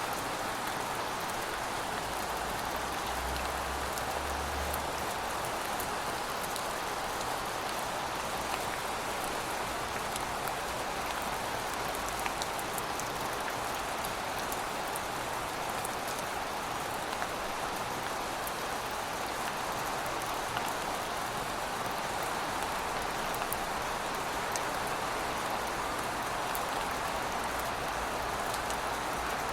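Steady rain falling on a surface, an even hiss with scattered fine drop ticks.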